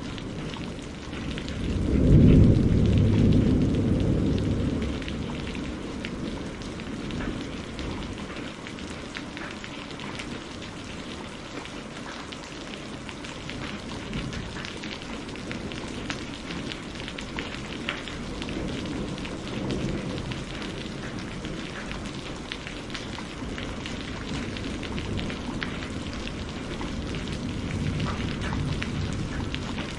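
Steady rain falling, with rolls of thunder: a loud low rumble about two seconds in that dies away over a few seconds, and fainter rumbles later on and near the end.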